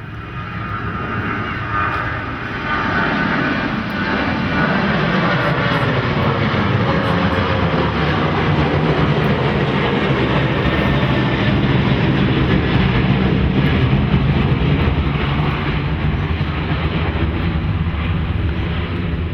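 A fixed-wing aircraft passing low overhead. Its engine noise builds over the first few seconds, with a falling pitch, and then holds loud and steady.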